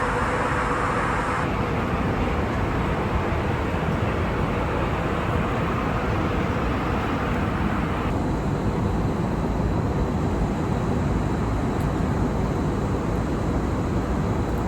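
Steady airliner cabin noise: engine and airflow rumble heard from inside the cabin. Its tone shifts abruptly about a second and a half in and again about eight seconds in.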